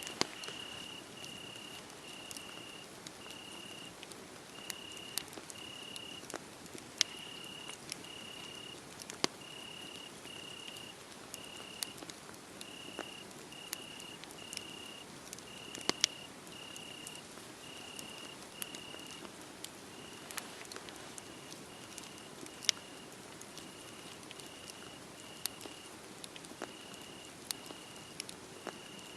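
Wood fire crackling, with a sharp pop every few seconds, over a steady soft hiss, while a cricket chirps a high, even chirp about twice a second.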